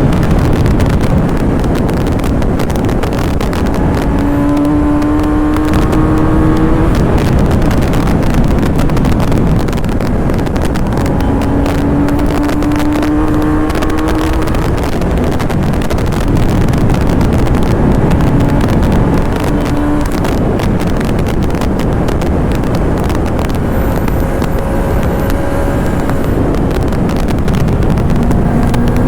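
Kawasaki ZX-10R's 1000cc inline-four engine pulling hard at speed. Its pitch climbs and drops back several times under a heavy rush of wind on the microphone.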